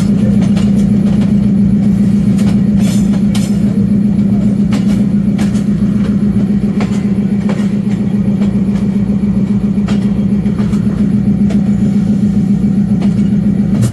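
Train running: a loud, steady low drone with scattered sharp clicks. It cuts off suddenly near the end.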